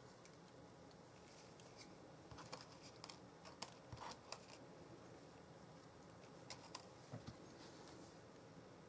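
Near silence with scattered faint clicks and light paper rustles: small cardstock snowflake die-cuts being picked up and layered by hand.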